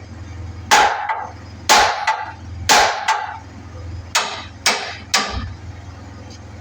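Hammer blows on metal steering parts, driving out a tie rod joint: three heavy, ringing strikes about a second apart, then three quicker, lighter ones.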